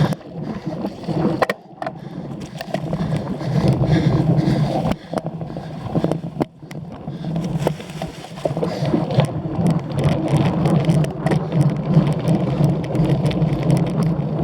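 Cyclocross bike riding over rough ground: wind rumbling on the microphone, with a constant rattle of clicks and knocks from the bike, briefly easing a few times.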